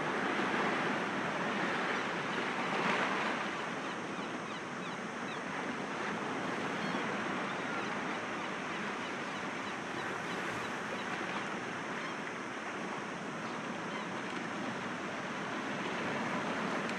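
Sea waves breaking against rocks: a continuous wash of surf that swells a little near the start and again about three seconds in.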